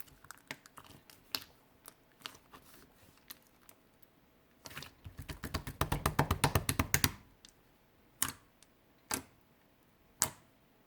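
Clear slime being squeezed and poked by hand, giving small sharp popping clicks. A quick run of pops comes about halfway through, then three single pops near the end.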